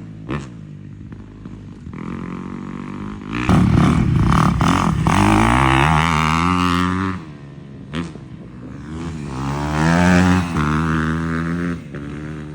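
250cc dirt bike engine revving, rising and falling in pitch as the throttle is worked: a quick blip near the start, a long loud pull from about three and a half seconds in, another blip, then a second long pull.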